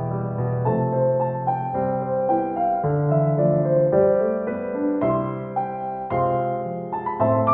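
Background music: a slow, gentle piano piece of sustained notes and chords.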